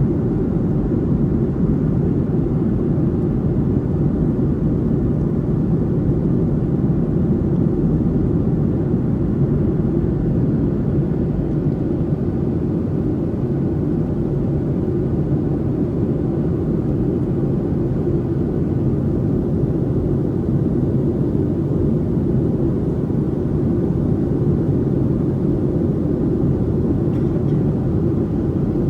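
Steady cabin noise of a Boeing 737-800 in flight during descent: a constant low rumble of airflow and CFM56 engine noise heard inside the cabin over the wing, with no change in level.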